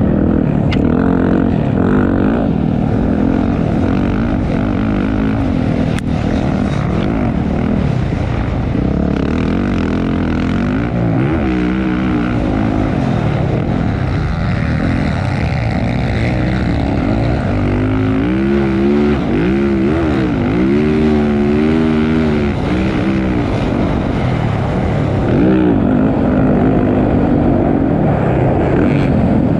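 Motocross dirt bike engine running hard, its pitch rising and falling again and again as the throttle is worked, most clearly about two-thirds of the way through.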